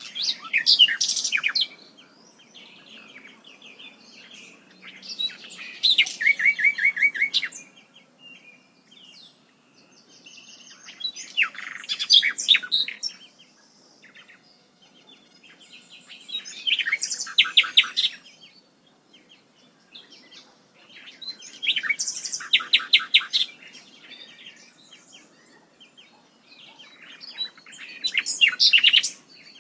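A songbird singing the same complex, high-pitched phrase with rapid trills over and over, six times, about every five to six seconds.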